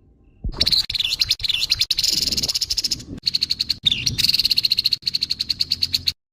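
Grey-headed babbler (tepus kepala abu) giving harsh, rasping chatter calls: a rapid rattle of about ten pulses a second that starts about half a second in and breaks off sharply near the end.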